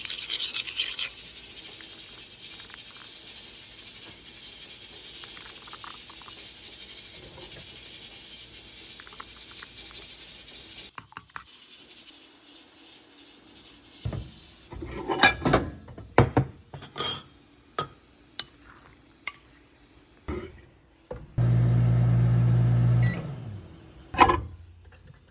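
Cooking an egg in a microwave: a steady hiss, then a run of clinks and knocks of a dish and utensils, then a microwave oven humming for a second or two, ending with a sharp click.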